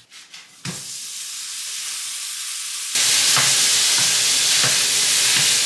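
Ground beef sizzling as it browns in a hot pan, a steady hiss that jumps louder about three seconds in, with a few faint knocks of stirring.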